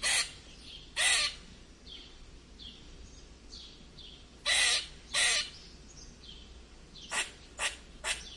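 A bird's harsh calls, about seven short ones in loose pairs and threes, with fainter, higher calls in between.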